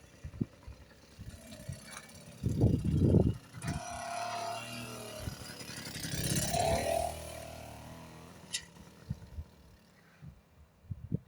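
Small engine of a motorised old-timer bicycle running as it passes, swelling and then fading over several seconds, with a few loud low thumps just before it.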